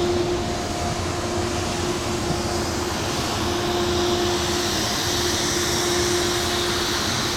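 Snowmaking fan gun running: a steady hum under a rushing hiss of blown air and spray.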